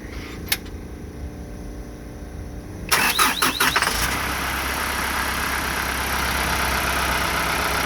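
Isuzu 4HK1TC 5.2-litre four-cylinder turbo-diesel cranking on the starter, catching about three seconds in with a burst of loud firing, then settling into a steady idle.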